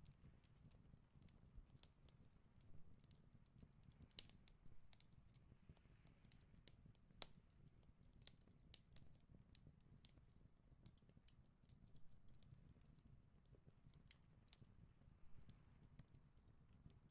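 Faint, irregular snips and clicks of long tailor's shears cutting through pattern paper, over near silence.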